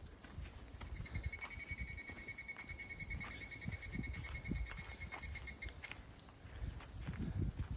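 Summer insect chorus: a steady high-pitched buzzing. About a second in, a second insect joins with a rapid pulsing trill that stops after about five seconds. Soft footfalls thud underneath.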